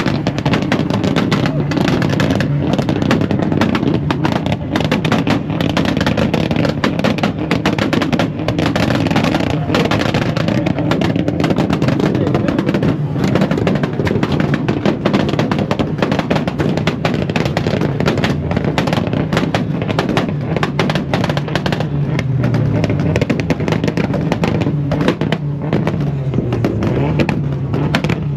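A car engine running with rapid exhaust pops and crackles throughout, its pitch rising and falling a little past the middle.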